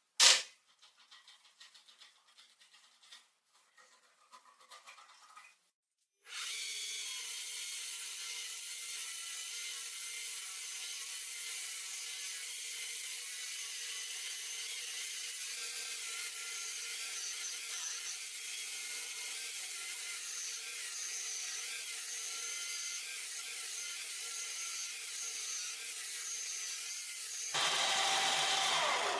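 A single sharp knock, a few faint clicks, then a power tool working the metal runs steadily for about twenty seconds with a high, hissing sound that grows louder and fuller over the last two seconds.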